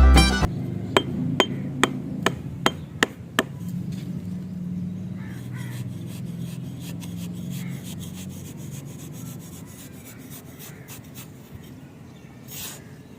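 Small wooden model being worked by hand: about seven sharp taps, roughly two a second, then a faint, steady rubbing or rasping on the wood.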